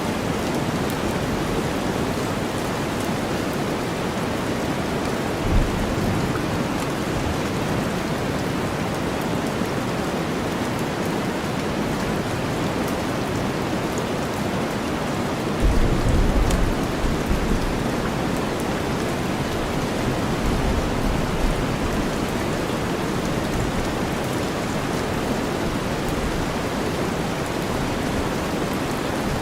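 Steady rain mixed with deep white noise, an even hiss. A brief low thump comes about six seconds in, and a longer low rumble of thunder starts a little past halfway.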